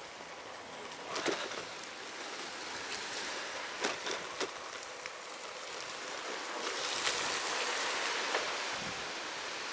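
Rain falling: a steady hiss with a few scattered taps, swelling louder about seven seconds in.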